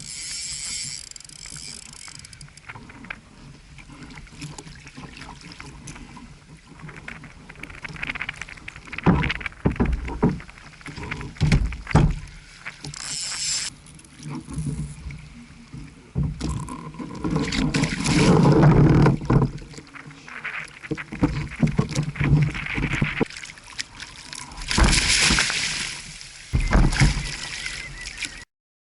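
Fishing kayak on choppy water: water splashing and slapping around the hull, with irregular knocks and bumps against the boat.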